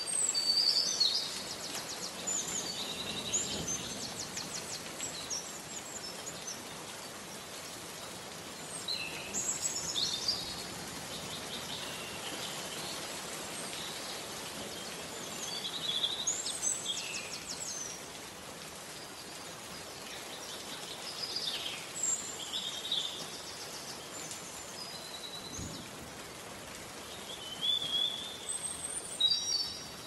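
A songbird singing five short phrases of quick trills and whistles, about every six seconds, over a steady hiss of rain.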